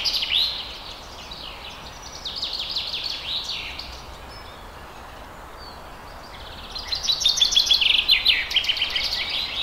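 Songbirds singing in fast trilled phrases of quickly repeated, downward-sweeping chirps, coming in bursts and loudest in the last few seconds, over a steady background hiss.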